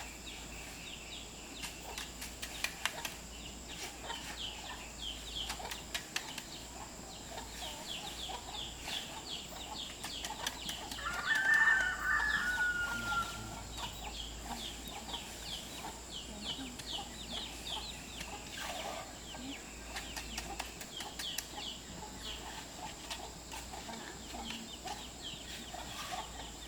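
Chickens calling and clucking steadily, with a rooster crowing once, louder, about halfway through.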